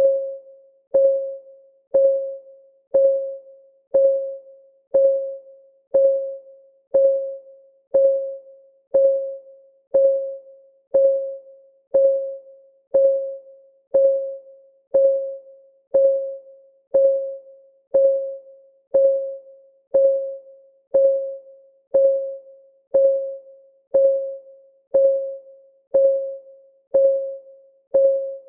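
Clock ticking steadily, one tick each second. Every tick is the same short, pitched tick that dies away quickly, with no alternating tick-tock.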